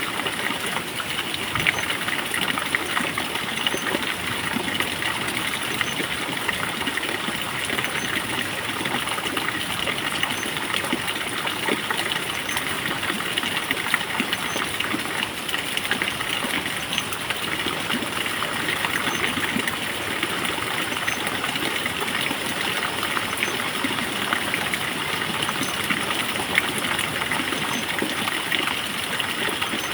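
Steady rushing of flowing water, like a stream, with a faint high chirp repeating about every two seconds.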